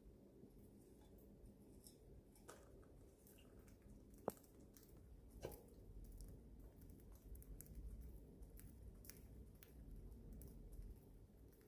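Faint, scattered soft clicks and crunches of budgies nibbling and rustling eucalyptus leaves, with one sharper click about four seconds in and another about a second later.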